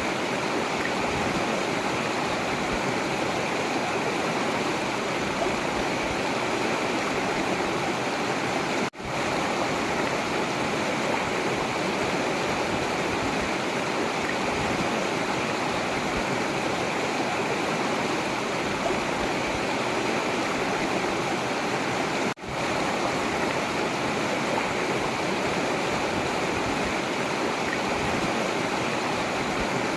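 Forest river water rushing and splashing in a steady, even flow, with two split-second dropouts about nine and twenty-two seconds in.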